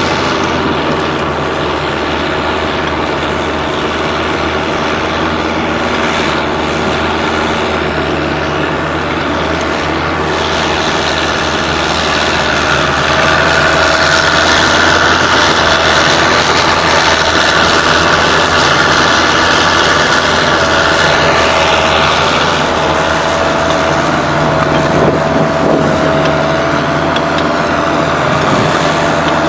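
Engine of a tracked swamp vehicle running steadily under way, with a steady higher-pitched whine over the low drone; it grows somewhat louder about twelve seconds in.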